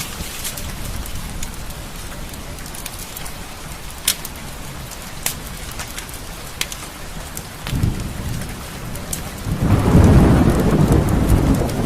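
Steady rain falling, with a few sharp, isolated pops. A low rumble of thunder starts to roll in about eight seconds in and swells into the loudest part of the sound near the end.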